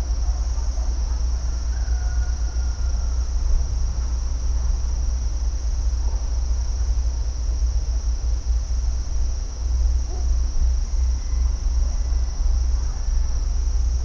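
A steady, continuous high-pitched chorus of insects over a heavy low rumble, with a few faint bird calls here and there.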